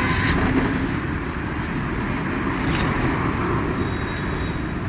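Steady outdoor background noise, a rumble and hiss such as distant traffic, with a brief high hiss about two and a half seconds in.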